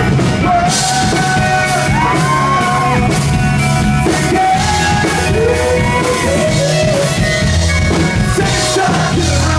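Live rock band playing: drum kit with steady cymbal strokes, bass and guitar, with a singer's voice gliding over the top.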